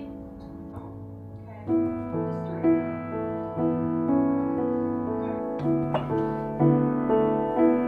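Soft background piano music, slow notes held over a low bass, growing fuller about two seconds in.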